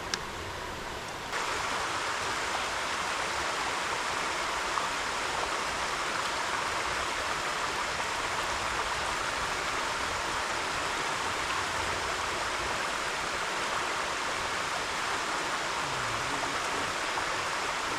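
Steady rushing noise of running water, stepping up suddenly about a second in and then holding even.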